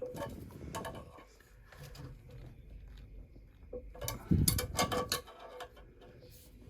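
A string of short knocks and clatters of hard objects being handled, loudest about four to five seconds in.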